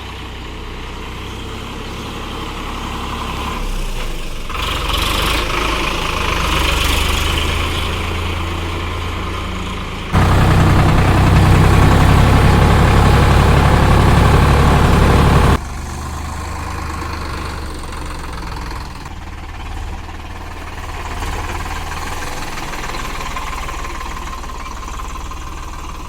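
Diesel engines of farm machinery running steadily. A much louder, closer stretch starts abruptly about ten seconds in and cuts off about five seconds later.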